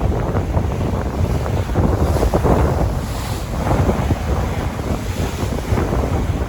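Sea waves washing on the shore, with strong wind buffeting the microphone in a steady low rumble.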